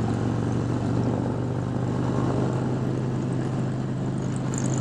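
Harley-Davidson motorcycle engine running at a steady speed while riding, a constant low drone with wind rushing over it.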